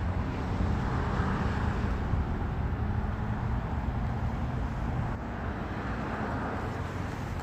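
Road traffic: a motor vehicle's steady engine and road hum, easing off slightly about five seconds in.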